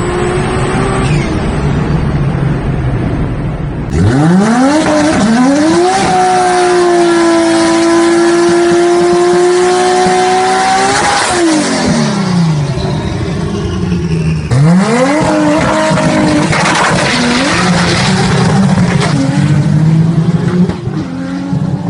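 Big-turbo Toyota Supra engine, loud, accelerating at high revs: the pitch climbs fast, holds high and steady for several seconds, then falls as the throttle closes. A second pull climbs again later, followed by rougher, uneven running.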